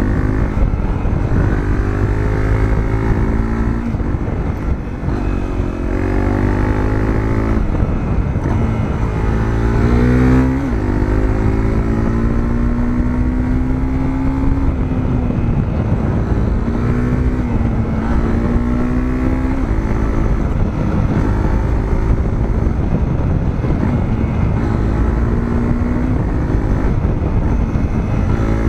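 Honda CRF250L's single-cylinder four-stroke engine through a Moriwaki aftermarket muffler, under way. For the first ten seconds the revs climb and drop back several times as it is shifted up through the gears, then they hold fairly steady with small rises and falls.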